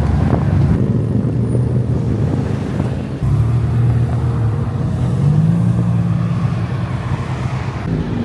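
Car engines running, a steady low rumble, with a brief break about three seconds in and a slight rise in engine pitch around five seconds.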